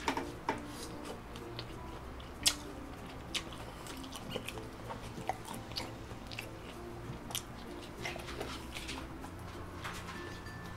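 Close-miked chewing of roast lamb and a pickled vegetable: wet mouth sounds with scattered small crunches and clicks, and a bite into the meat near the end.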